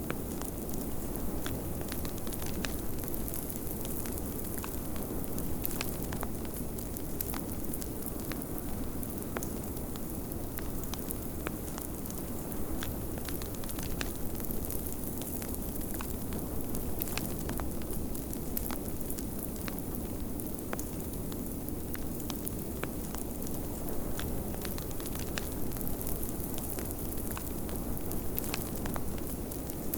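Wood fire crackling in a fireplace, with irregular sharp pops throughout, over a steady low rush of blizzard wind.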